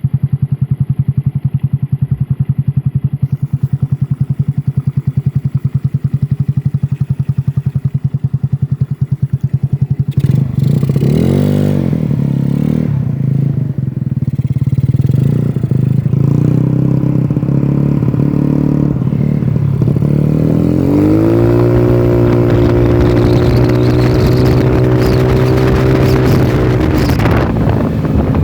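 Yamaha Mio Smile scooter's single-cylinder four-stroke engine through a Black Devil aftermarket exhaust with a 38 mm inlet, idling with a rapid, even exhaust pulse. About a third of the way in it is blipped once, then about two thirds in it is revved up and held at higher revs for several seconds, dropping back near the end.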